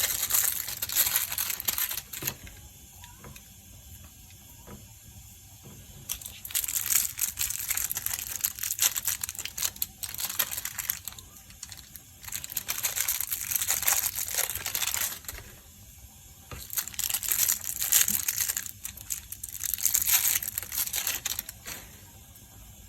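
Imitation crab sticks being torn apart by hand into strips, a crackly rustling that comes in about five bursts of a few seconds each with quieter pauses between.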